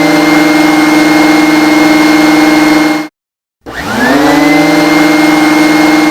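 Vacuum cleaner motor running with a steady hum and high whine. It cuts off about three seconds in, then is switched on again half a second later, its pitch rising as it spins up to speed.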